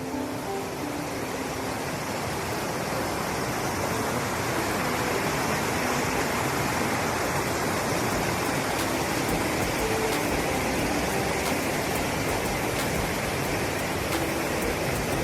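Fried rice sizzling steadily in a hot frying pan over a campfire, with a constant dense hiss and small crackles.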